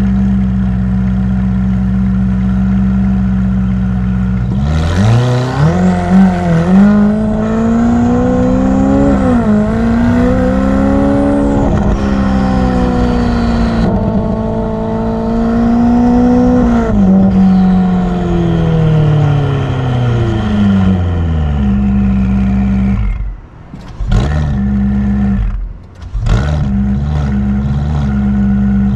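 Ferrari F8's twin-turbo V8 through a Novitec aftermarket exhaust. It runs steadily at first, then accelerates hard about five seconds in, climbing in pitch with several brief dips, holds high revs, and winds down slowly. Near the end the sound twice drops away abruptly with a few sharp cracks, then settles back to a steady run.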